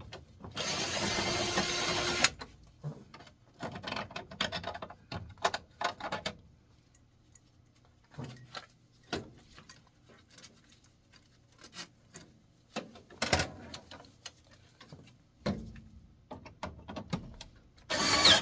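Small handheld drill running for about two seconds to back out a screw from a furnace blower motor mount, followed by scattered clicks and knocks from handling the screws and metal parts. The drill runs again briefly twice later on.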